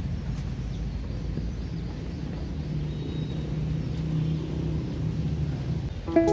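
A low, steady outdoor rumble with a faint hum that grows a little louder midway. Acoustic guitar music starts right at the end.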